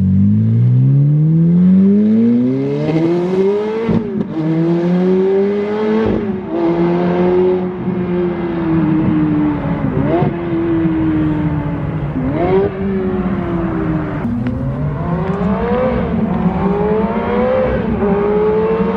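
Ferrari F430's 4.3-litre flat-plane V8 running through straight pipes with the mufflers deleted and the catalytic converters still fitted, under hard acceleration. The revs climb steeply for about four seconds, drop at a gear change, then rise and fall several times with quick blips near the ten- and twelve-second marks.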